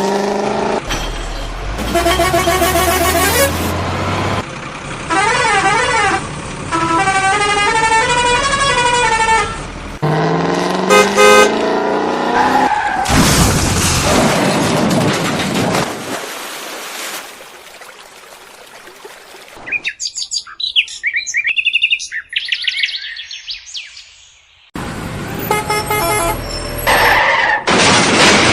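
A string of cartoon vehicle sound effects one after another: horns honking, warbling rising-and-falling tones, and engine noise, with a quieter stretch of short high chirpy tones late on.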